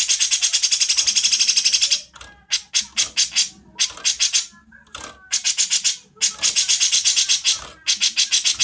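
Songbird giving harsh, rapid-fire rattling song (tembakan kasar): strings of dry clicking notes at several per second, in bursts of one to two seconds with short breaks between them.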